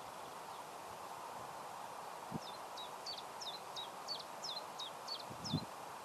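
A bird singing a run of about ten short repeated high notes, roughly three a second, over a steady outdoor hiss, with a few soft low thumps.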